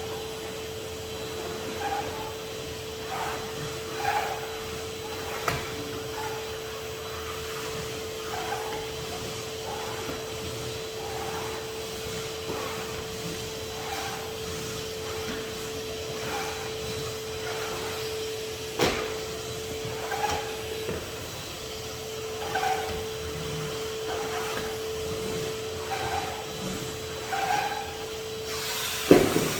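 Henry HVR200 620 W vacuum cleaner running with a steady motor hum, with light rubbing knocks about every second as the cleaning tool is worked back and forth. There is a sharp click about two-thirds of the way in and a louder knock near the end.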